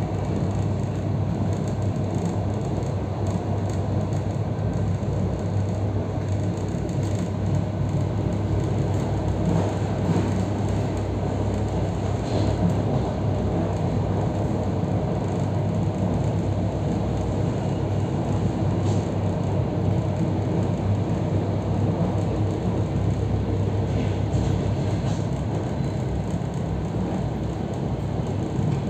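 EP3D electric multiple unit running along the line, heard from inside the passenger carriage: steady train running noise with a low steady hum underneath.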